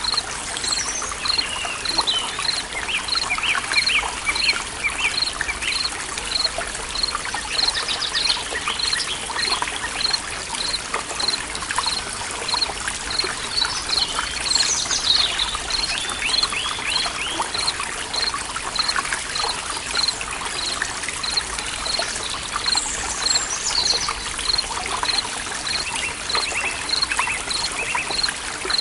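Stream running steadily with birds singing over it in scattered chirps and sweeping calls, and a short high pip repeating evenly about three times every two seconds.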